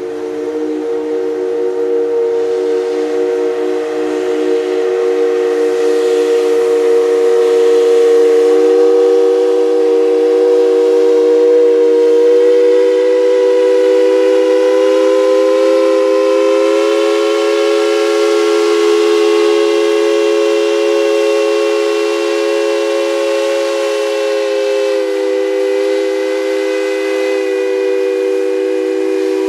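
Steam locomotive's chime whistle held in one long, loud blast. Its chord bends slightly higher about halfway through and settles lower near the end.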